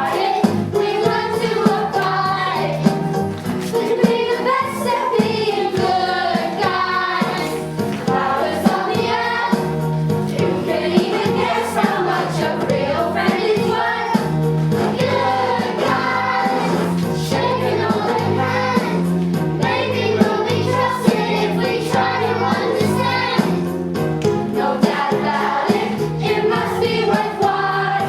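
A chorus of voices singing a stage-musical number together over instrumental accompaniment with a steady beat.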